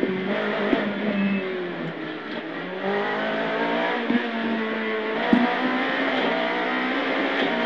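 Renault Clio Williams rally car's 2.0-litre four-cylinder engine, heard from inside the car, pulling hard through the gears, its note dipping and climbing again with each shift. A few sharp knocks from the car over bumps.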